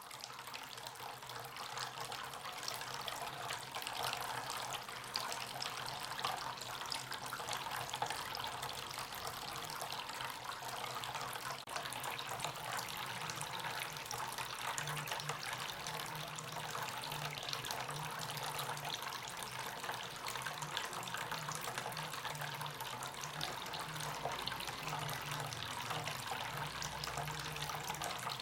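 Water trickling and splashing steadily in a small homemade cement water fountain. A low hum comes and goes underneath in the second half.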